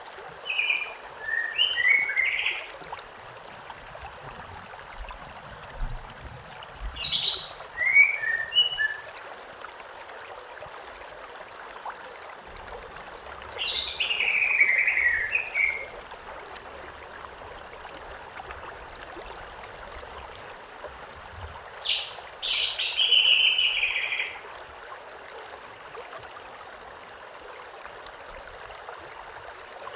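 A steady rush of flowing stream water, with birds singing four short phrases of chirps and trills, several seconds apart.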